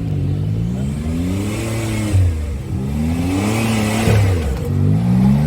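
Off-road vehicle's engine revving up and easing off several times, its pitch rising and falling in turn.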